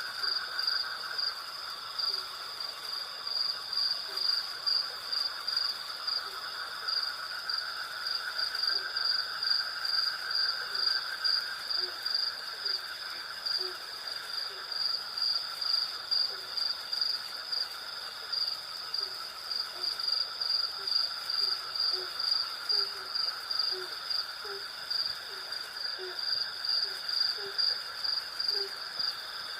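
Night insect chorus: crickets chirping in a steady, rapid high pulse over a continuous lower insect drone. A short low call repeats about once a second through most of it.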